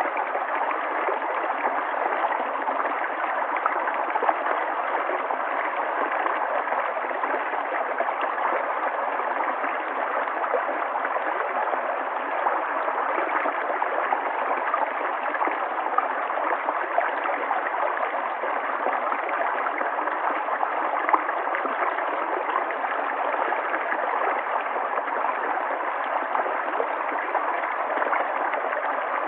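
River water flowing steadily, a constant rushing with a faint gurgle.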